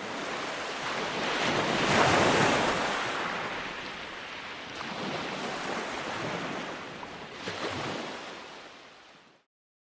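River water rushing, loudest about two seconds in and fading out near the end.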